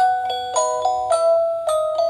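Music box playing a tune: the tuned steel teeth of its comb are plucked note by note, often two or three together. Each bell-like note rings and fades.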